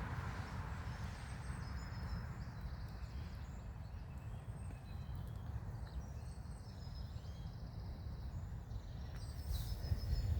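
Small birds singing and calling in woodland: short high chirps scattered throughout, over a steady low rumble, with a brief rustle near the end.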